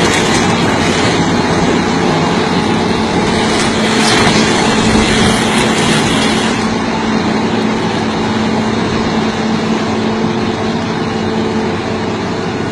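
Heavy diesel machinery running steadily under load, with a constant low engine hum and a wide mechanical noise. A brief louder burst of noise comes about four seconds in.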